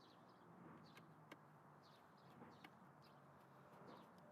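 Near silence with faint birds chirping in short, repeated high calls, and a few light clicks.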